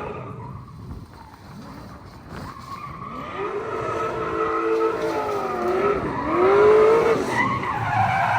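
A race car's engine revving up and down as it is driven hard, with tyre skidding under it. It grows louder, loudest a little before the end, with its pitch swinging up and down with the throttle.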